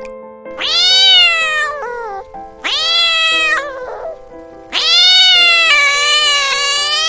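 A cat meowing three times, loud and high-pitched, the third call longest and wavering in pitch, over background music.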